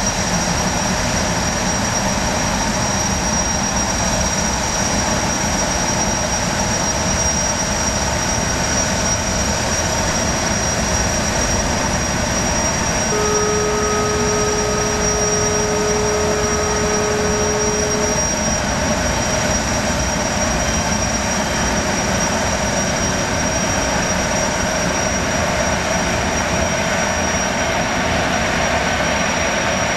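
High-speed jetfoil's gas turbines running: a steady loud rush with a constant high whine. About 13 seconds in, a single steady horn blast sounds for about five seconds.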